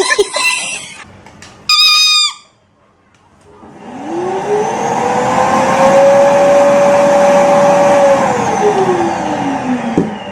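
A motor-like sound with a hiss: its pitch rises over a couple of seconds, holds steady, then falls away near the end. Before it comes a brief high-pitched call that drops at its end.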